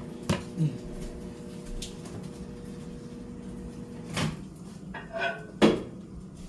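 Knocks and bangs of kitchen handling, the loudest about five and a half seconds in, over a steady hum that stops about four seconds in.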